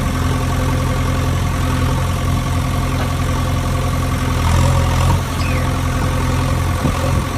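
Heavy diesel engine idling steadily, swelling slightly for a moment about halfway through.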